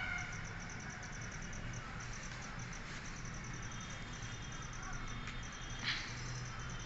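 Rapid, regular high-pitched chirping from an insect over a low steady hum, with one sharp click about six seconds in.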